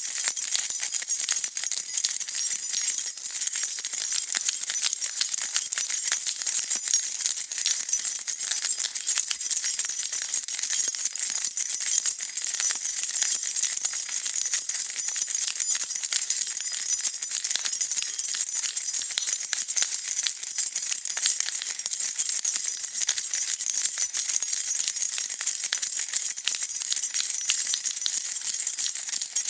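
A bunch of metal keys being shaken, jingling continuously in a dense, steady rattle of high metallic clinks.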